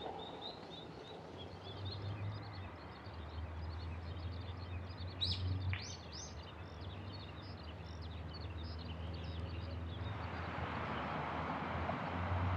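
Many small birds chirping and twittering over a steady low distant rumble, with one louder, higher bird call about five seconds in. Near the end a wider noise swells up, like wind or a passing vehicle.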